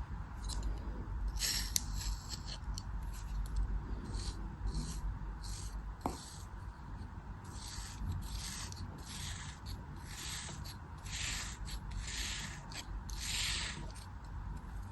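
Crisp scraping strokes of a blade cutting through soft, crumbly material, one after another, roughly one every half second to a second.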